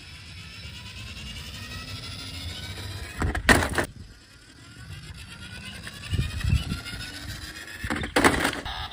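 A small motor whirring, its pitch rising slowly, broken twice by short, loud, noisy bursts, with a few low thumps between them.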